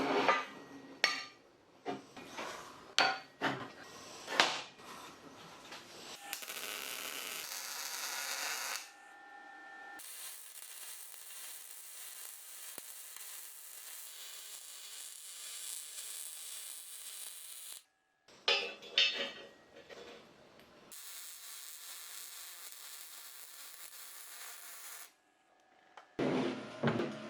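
Workshop tool sounds in several short cuts: a run of sharp metal clicks and knocks, then long stretches of steady hissing, with more knocking near the end.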